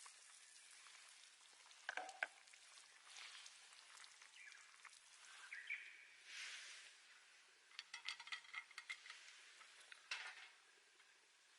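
Faint sizzling and crackling over a low hiss, with scattered small clicks and ticks.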